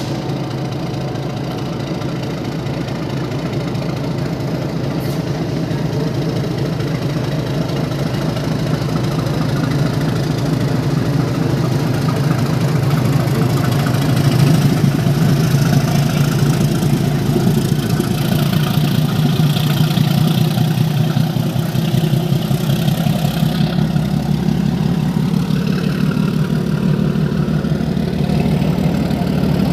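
Steady low engine-like drone of trains in a railway yard, with a fast fine rumble in it, growing louder about halfway through.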